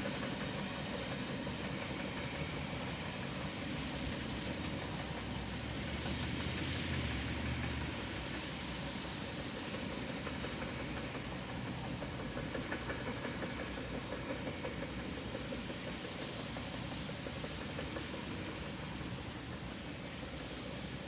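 Freight cars of a long train rolling past: a steady rumble of steel wheels on rail, with a quick run of rhythmic clicks about twelve seconds in.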